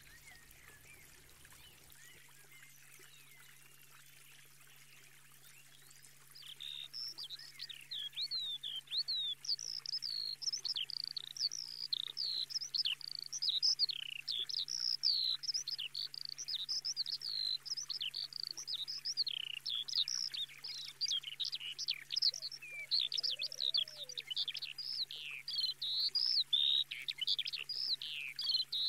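Birds singing: a busy, unbroken stream of quick high chirps and sweeping notes. It starts about six seconds in, after a quiet stretch with only a faint steady hum.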